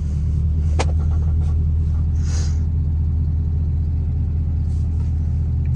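Lifted diesel pickup's engine idling with a steady, deep rumble. A single sharp click comes about a second in, and a brief high hiss a couple of seconds in.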